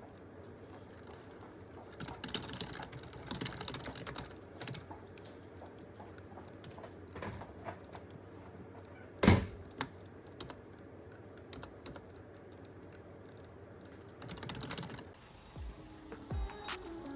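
Computer keyboard typing in bursts of clicks, with a single loud thump about nine seconds in. Music starts near the end.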